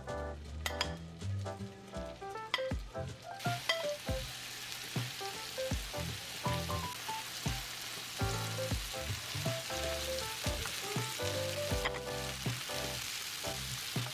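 Pork meatballs sizzling in hot oil in a frying pan as they brown, the sizzle starting a few seconds in and then holding steady. Background music plays throughout.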